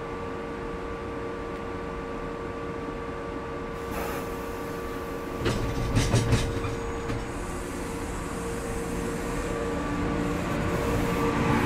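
A JNR 475 series electric train standing at the platform with a steady electrical hum. About five and a half seconds in there is a short burst of knocks and air noise, then the train starts to pull away, its running noise slowly growing louder.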